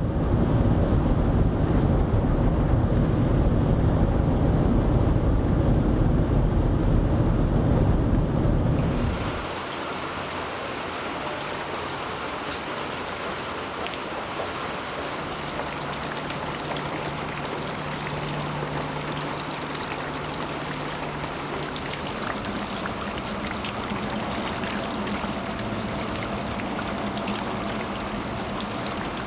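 Thunderstorm: a loud low rumble of thunder for about the first nine seconds, then steady rain with individual drops pattering on a surface.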